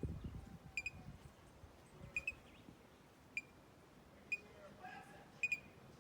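A bird calling with short, sharp, high 'pip' notes about once a second, some given in quick pairs.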